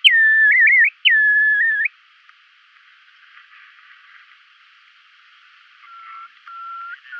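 Bristle-thighed curlew calling: two loud whistled calls in the first two seconds, each a sharp drop in pitch followed by a held, wavering whistle that rises at the end. Fainter, lower, steady whistles come in near the end.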